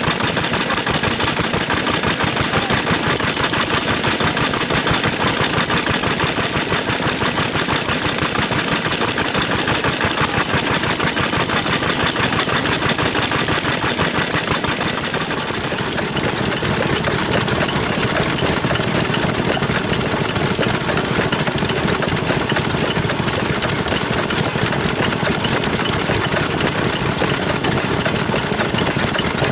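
Vintage stationary farm engines running with a rapid, even firing beat. About halfway through, the sound shifts to a lower, heavier beat.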